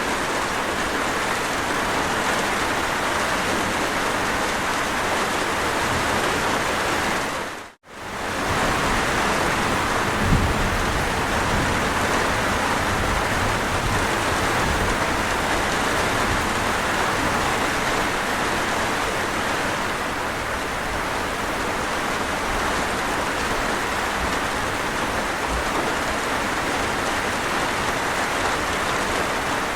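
Steady rain falling in a continuous even hiss. It fades out to near silence for a moment about eight seconds in, then returns. A brief low rumble follows a couple of seconds later.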